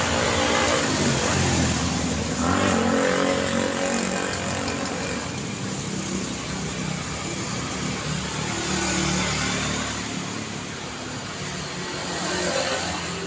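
City road traffic: cars passing with engine and tyre noise, one after another. It swells as vehicles pass close in the first few seconds and again near the end.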